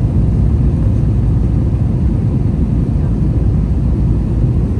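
Steady low rumble of cabin noise inside an Airbus A321 with IAE V2500 engines: engine and airflow noise heard from a window seat.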